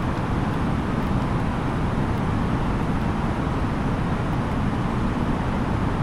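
Steady in-flight cabin noise inside an Airbus A330-900neo: an even, low rush of airflow and engine noise with no changes.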